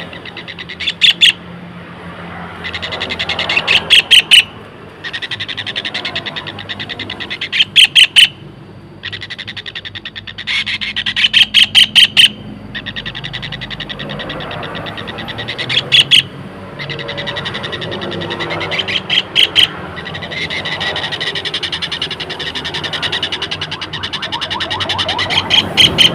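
White-throated kingfisher calling: rapid rattling trills, repeated again and again, each swelling in loudness and ending in a few loud, harsh notes.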